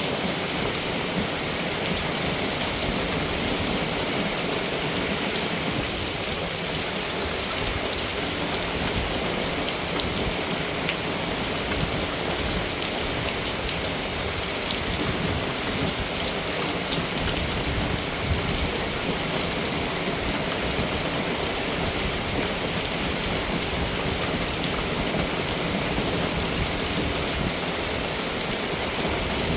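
Steady rain falling, a continuous even hiss with scattered sharp drop ticks.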